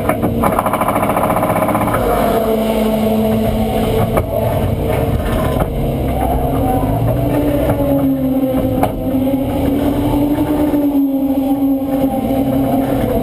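BMW E90 Super2000 race car's four-cylinder engine idling steadily, heard from inside the stripped-out cockpit, its pitch wavering slightly.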